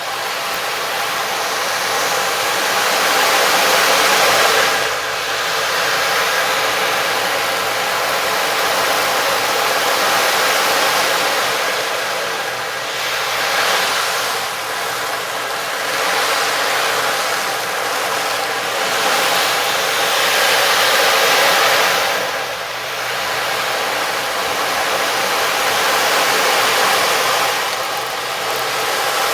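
Sound-healing instruments playing a dense, hissing wash over several steady ringing tones. It swells and eases back every few seconds, dipping briefly about 5, 13, 22 and 28 seconds in.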